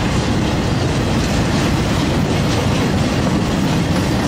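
Freight train of loaded flatcars rolling past close by: a steady, loud rumble of steel wheels on the rails, with some clickety-clack of wheels over rail joints.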